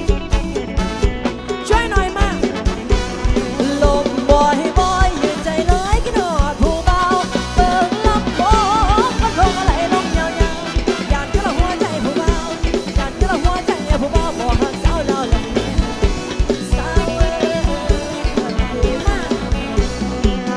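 A live Thai band playing an upbeat dance song: a drum kit keeps a steady beat under a melody line that bends and slides in pitch.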